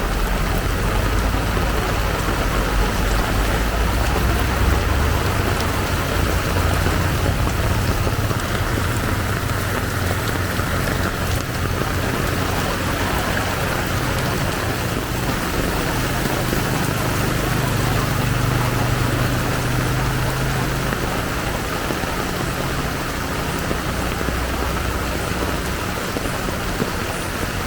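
Heavy rain pouring steadily in a downpour, with the low hum of vehicle engines underneath, strongest at the start and again a little past halfway.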